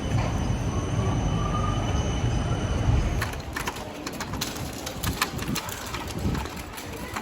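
A heavy low rumble of a passing rail vehicle, which drops away about three seconds in. Sharp clicks and pigeons cooing follow.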